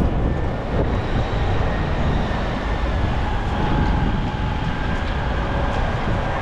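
Loud, steady low rumble of a passing heavy vehicle, with faint steady whining tones above it.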